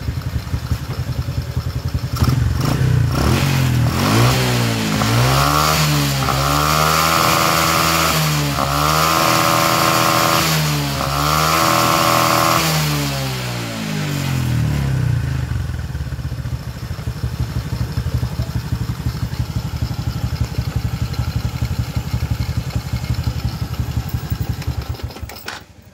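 Honda Karisma 125's single-cylinder four-stroke engine idling, then revved up hard three times and let back down to a steady idle, keeping running without stalling once the throttle is released: the sticking intake valve has been freed. It is switched off near the end.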